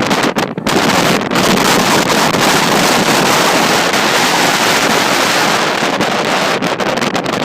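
Strong wind blasting across the microphone, a loud continuous rush of noise with a few brief dips in the gusts early on and near the end.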